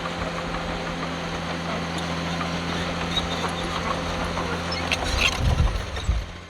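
Heavy diesel engine of earthmoving machinery running steadily, with a burst of knocks and clatter about five seconds in. The sound drops away abruptly at the end.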